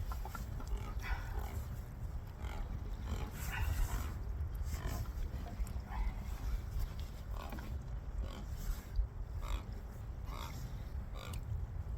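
Wind rumbling on the microphone over a choppy boat, with short irregular knocks and splashes.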